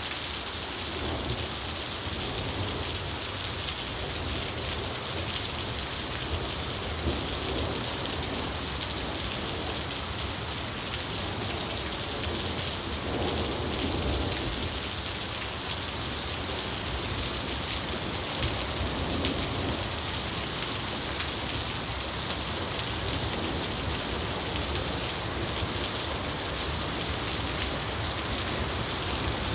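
Steady rain falling, an even unbroken hiss, with soft low rumbles of thunder swelling now and then.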